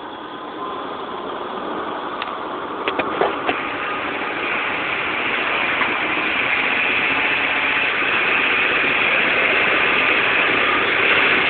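Truck engine working under load, getting steadily louder, as it tows a rig whose air brakes have locked up. A few sharp clicks and knocks come about two to three seconds in.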